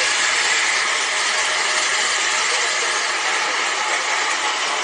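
Steady, loud rushing hiss of an aircraft's engines running.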